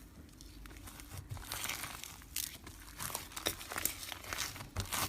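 Slime being pressed and stretched by hand, making irregular crinkly crackles and small pops.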